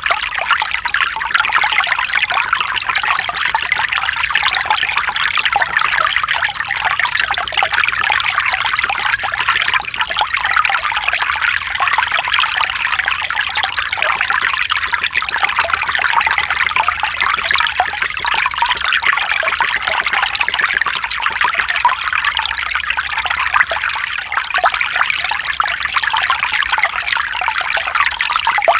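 Mountain stream running over rocks: a steady, continuous babble of water with most of its sound in the upper-middle range.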